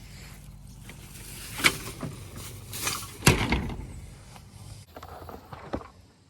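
A steady low engine hum with several loud knocks and rattling, handling noises over it; the hum stops about five seconds in.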